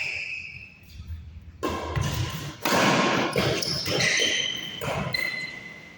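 Badminton play on an indoor court: a sneaker squeaks on the floor at the start, then from about a second and a half in come quick thuds of footsteps and shuttle hits with more shoe squeaks. It quiets near the end.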